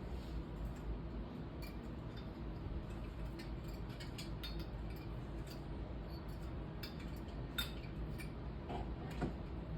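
Scattered light clicks and clinks of small hard objects being handled, over a low steady hum.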